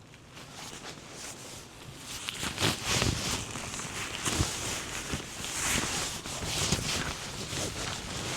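Irregular rustling and short knocks of a person moving about in vegetation and handling gear while setting up a photography hide. It starts quiet and gets busier from about two seconds in.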